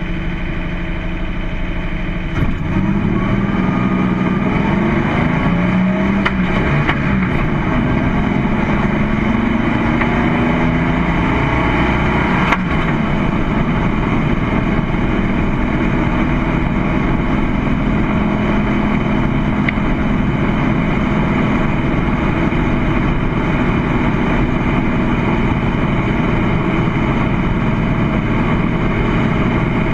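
GMC hill-climb truck's engine pulling hard. About two seconds in, the pitch climbs and drops several times as it revs up through the gears, and after about twelve seconds it holds a steady high note.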